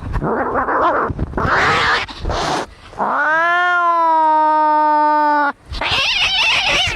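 Angry cats fighting: harsh, noisy hisses and screeches. About three seconds in, one long, steady yowl lasts some two and a half seconds, and then the harsh noises come back.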